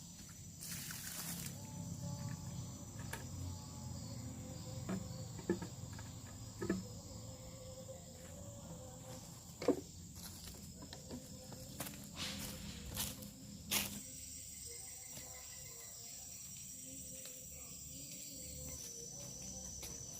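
Insects, crickets or similar, keeping up a steady high-pitched drone. A few short knocks and rustles come in the middle seconds.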